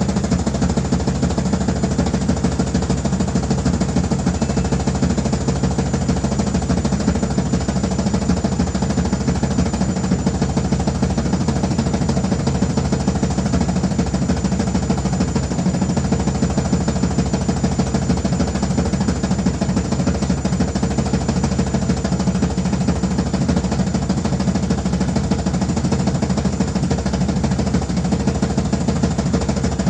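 Washing machine running loudly, a steady, rapid rattling vibration with a low hum that does not change.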